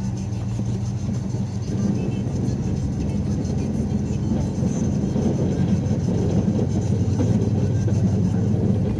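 Engine of a vehicle plowing snow, running steadily; it gets a little louder and rougher from about two seconds in as it works.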